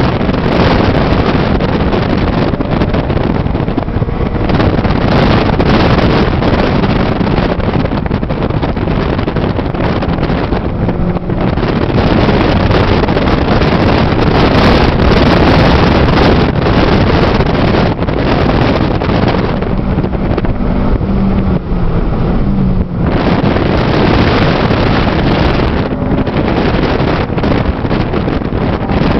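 2008 Honda Civic Si sedan's 2.0-litre four-cylinder engine running hard under load, heard from inside the cabin with road and wind noise. The sound dips briefly about eleven seconds in and again about twenty-three seconds in, as the driver lifts or shifts, then picks back up.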